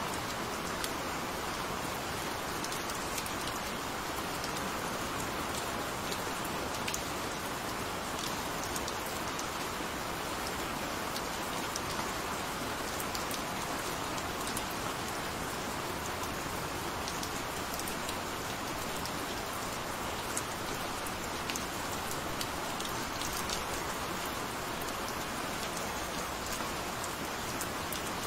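Gentle rain falling steadily: an even hiss with many small, sharp drop taps scattered through it.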